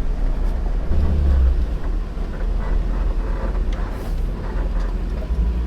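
Vehicle engine running, a steady low rumble that swells briefly about a second in.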